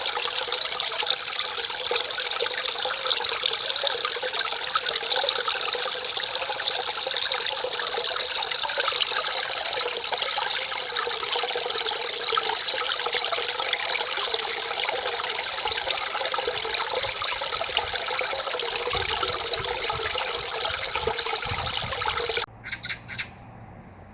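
Mountain stream running with a steady, loud rush of water. It cuts off suddenly near the end, followed by a few brief bursts of sound and then a faint background.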